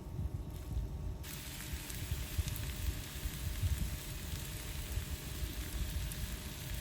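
Food frying in a pan. The sizzle comes in suddenly about a second in, with low irregular thumps underneath.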